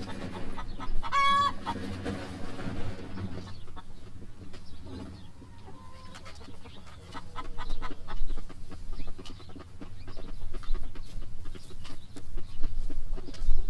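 Backyard chickens clucking, with one loud, brief pitched squawk about a second in, followed by many small clicks and knocks.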